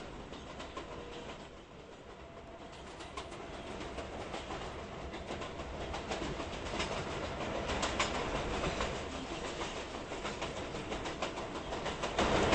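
New York City subway train running on the rails, wheels clicking over rail joints amid a steady rumble that grows louder over the first several seconds, with a loud surge near the end.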